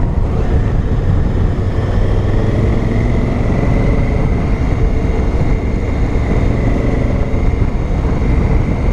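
Honda Africa Twin's parallel-twin engine running at a steady cruising speed while being ridden, its note holding level throughout.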